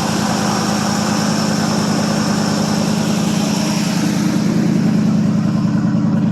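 1979 Chevrolet C10 pickup's engine idling steadily through a glass-pack muffler, an even, fast pulsing exhaust note.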